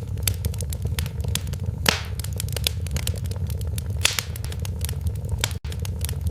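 Wood fire in a fireplace crackling and popping irregularly over a steady low rumble, with a couple of louder pops. The sound drops out for a split second near the end.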